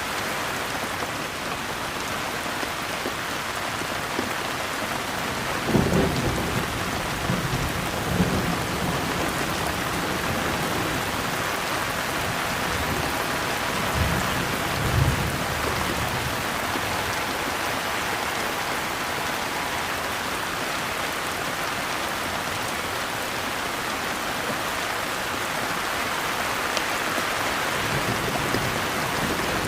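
Steady rain pouring, with rolls of thunder rumbling through it: a sharper peal about six seconds in, more around eight and fourteen to fifteen seconds, and a rumble building near the end.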